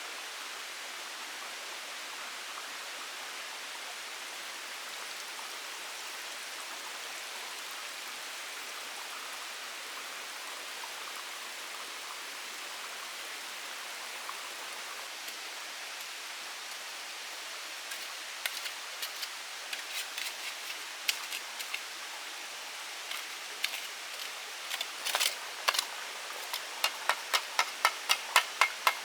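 Steady hiss of rain falling in the forest. From about two-thirds of the way in, a series of sharp taps cuts through it, scattered at first and then coming in a quick, fairly regular run of about three a second near the end.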